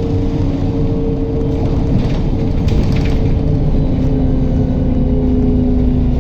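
MAZ-107.468 city bus under way, heard from inside the passenger cabin: a steady drivetrain drone and whine over road rumble, the whine shifting slightly in pitch about halfway through, with a few light rattles.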